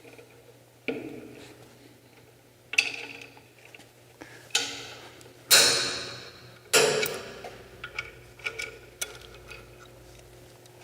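Hand wrench working on steel motor plate bolts as they are loosened: about five sharp metal clanks and clicks, each ringing briefly, with a few lighter ticks near the end.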